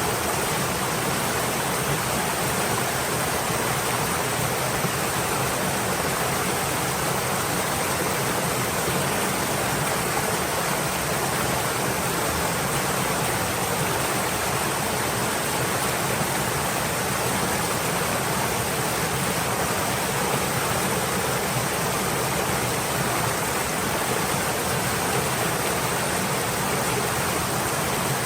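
Stream water flowing and splashing in a steady, even rush with no change or distinct events.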